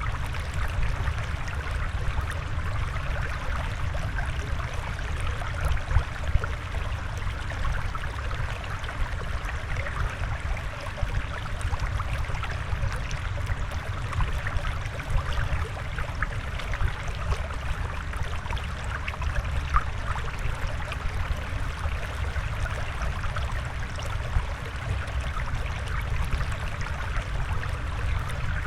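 Flowing water trickling and bubbling steadily, with many small splashy ticks through it.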